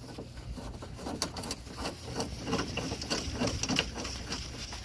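Irregular light metallic clicks and rattles as a nut is fitted and threaded onto a bolt by hand on a car's front suspension.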